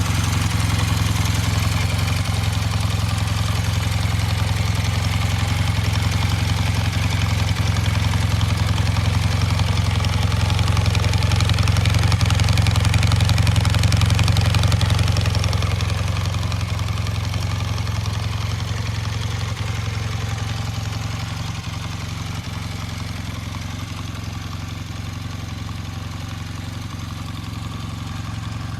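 Honda CB400T Hawk II's air-cooled parallel-twin engine idling steadily. It gets a little louder about halfway through, then eases back and settles at a quieter idle.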